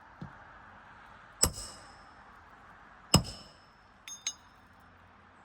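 Roofing nail being driven under a shingle by hammering a steel roof snake: two loud ringing metal strikes about two seconds apart, with a light tap just before them and two quick lighter clinks near the end.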